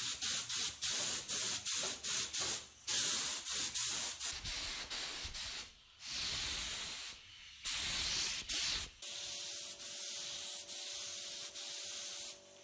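Quick abrasive rubbing strokes, about three a second, typical of hand sanding or scrubbing a metal part. About nine seconds in they give way to a steadier hiss over a low motor hum.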